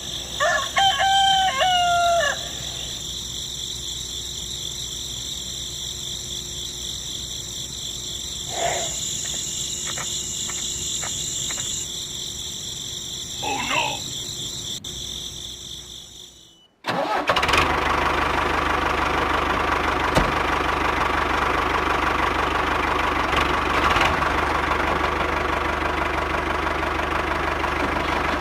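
A rooster crows once near the start over a steady high-pitched whine, and two shorter calls follow. After a sudden break about two-thirds of the way in, a small electric motor and fan of a homemade wheat-cleaning model run with a steady whir.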